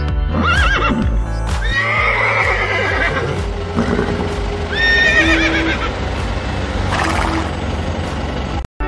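Horse whinnying several times over background music, each call a wavering, quavering cry lasting about a second. The music drops out briefly near the end.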